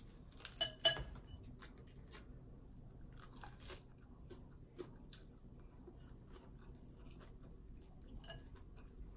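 Close-up eating sounds of a person chewing and crunching food, with two sharp ringing clinks about a second in, then quieter chewing and small clicks.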